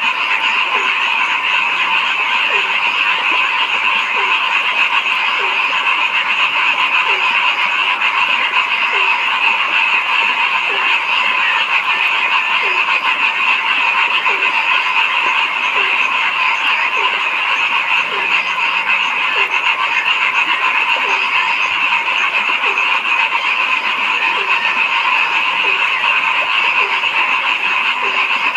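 A dense, steady chorus of frogs calling, with one lower-pitched frog giving short drooping croaks about once a second over it.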